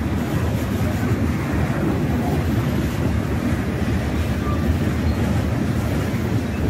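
Freight train cars rolling past below, a steady low noise of steel wheels on the rails.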